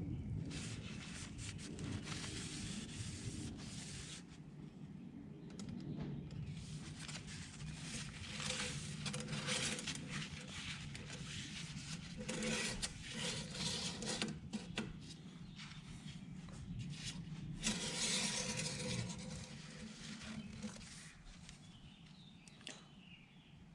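Engine oil dipstick being drawn from its tube and handled to read the level: a run of scraping and rubbing sounds in several bouts, over a low steady hum.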